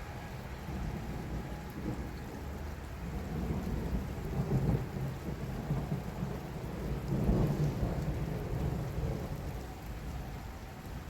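Thunderstorm with heavy rain falling steadily and thunder rumbling, the deep rumble swelling twice, about four seconds in and again near the middle.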